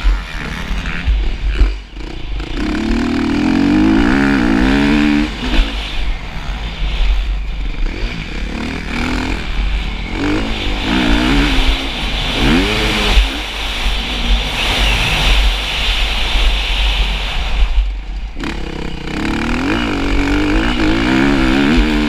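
Motocross motorcycle engine revving hard, its pitch rising and falling again and again as the throttle is opened and closed.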